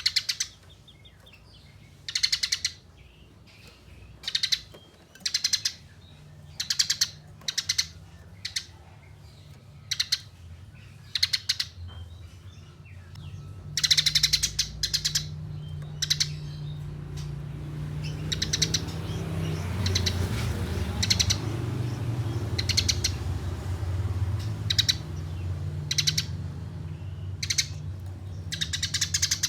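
Eurasian tree sparrows giving fighting calls: short, rapid chattering bursts of chirps about once a second, with a couple of longer runs. A low steady hum rises underneath from about halfway through.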